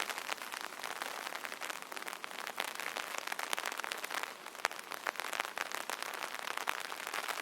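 Rain falling on an umbrella: a steady hiss with many separate drops tapping irregularly on the canopy.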